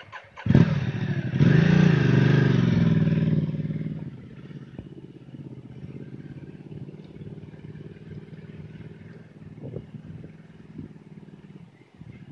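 Enduro motorcycle engine being cranked and catching about half a second in. It is revved up and down for a couple of seconds, then settles into a steady idle.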